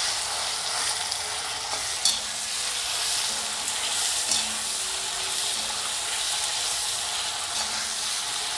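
Marinated prawns sizzling steadily in hot oil in an iron kadai, half-frying, while a steel spatula stirs them, scraping the pan with a couple of sharp clinks about two and four seconds in.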